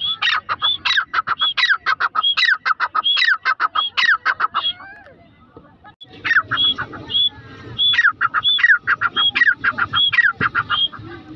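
Grey francolin calling: two loud bouts of rapid, repeated shrill notes, with a short pause between them about halfway through.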